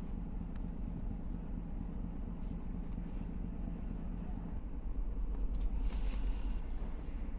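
Chevrolet Tahoe V8 idling rough with a strong misfire, which a scan tool traces to cylinders 3 and 7. It gets louder about five seconds in.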